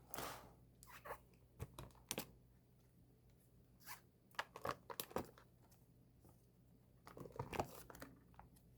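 K-pop album packaging being opened and handled: short bursts of tearing and crinkling in clusters, about a second in, around four to five seconds in, and again near the end.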